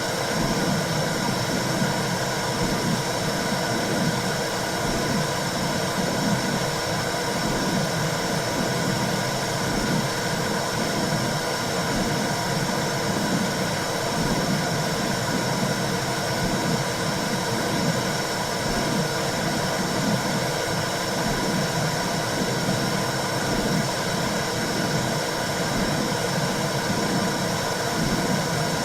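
Womb sound for soothing a newborn: a steady rushing white noise with a soft low throb repeating about once a second.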